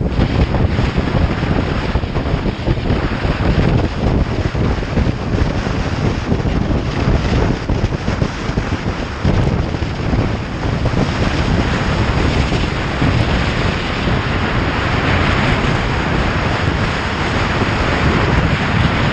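Wind buffeting the microphone of a moving motorcycle, a dense steady rush that grows a little brighter near the end.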